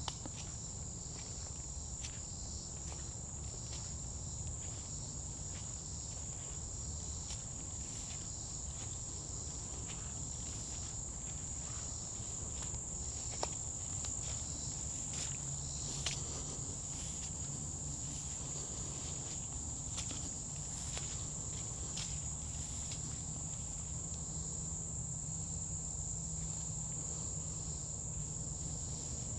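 A steady, high-pitched insect chorus that does not let up, with scattered footsteps on the forest trail.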